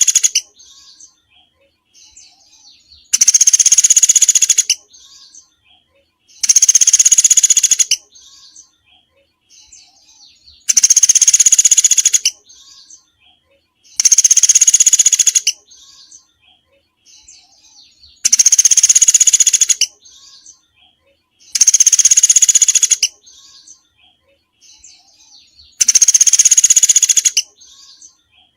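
Recorded song of a small songbird: loud, dense high-pitched trills lasting about a second and a half, repeated seven times at intervals of roughly 3.5 to 4 seconds, with faint soft chirps in between.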